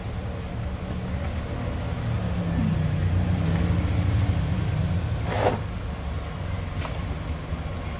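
A steady low mechanical drone with a faint hiss, broken by a short scraping noise about five and a half seconds in and a fainter one near seven seconds.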